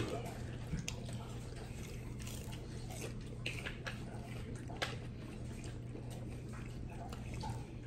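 Eating sounds close to the microphone: irregular wet chewing and mouth clicks from people eating fried food, over a steady low hum.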